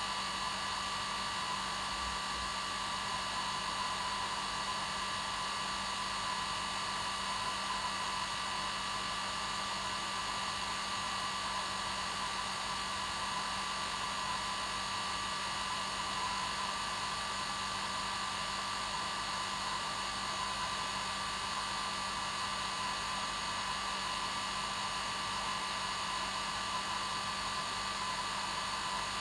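Hair dryer running steadily: an even blowing hiss with a constant motor whine, unchanging throughout.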